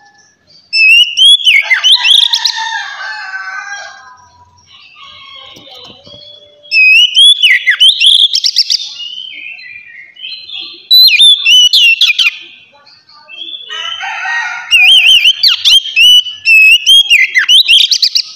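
Oriental magpie-robin (kacer) singing loudly in four bursts of sliding whistled notes mixed with fast, clipped chattering notes, with short quieter pauses between phrases.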